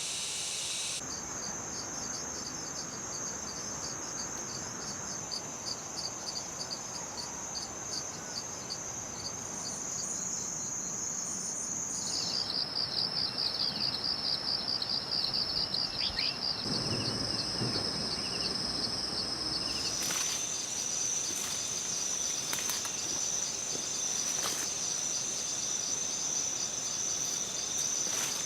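Chorus of insects: a steady, high-pitched pulsing trill. Its pitch and pattern shift abruptly about a second in, about 12 seconds in and about 20 seconds in.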